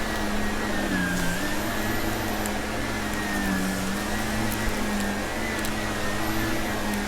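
Vacuum cleaner running steadily. Its motor pitch dips slightly every couple of seconds as it is pushed and pulled, and a few faint crackles come from debris being sucked up.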